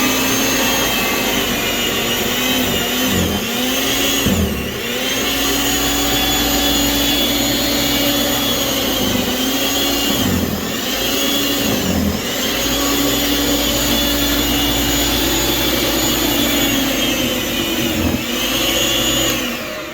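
Small Snow Joe electric snow thrower running with a steady motor whine that dips in pitch about five times and recovers: the motor bogging as it bites into deep, wet, heavy snow. It cuts off near the end.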